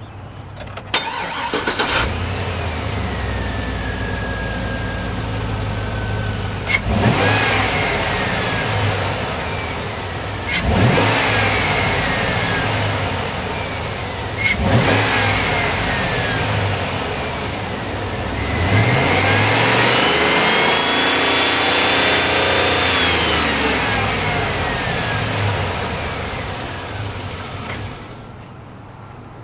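2004 Chevrolet 2500 pickup engine cranking and catching about a second in, then idling. It is revved three times in quick blips, then held at higher revs for several seconds before falling back to idle, and stops near the end.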